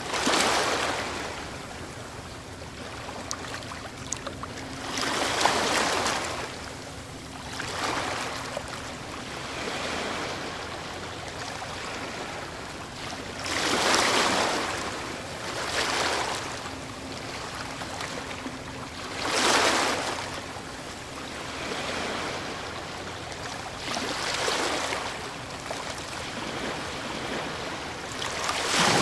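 Ocean waves breaking in surf, each wave swelling into a loud rush of hissing water every four to six seconds and then falling back to a softer wash.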